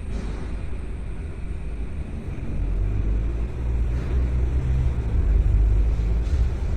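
Car on the move: a steady low rumble of engine and road noise that grows louder about halfway through.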